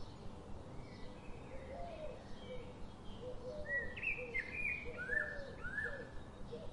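Birds chirping and calling over a steady hiss: many short whistled notes, with a few louder sweeping calls about four to six seconds in.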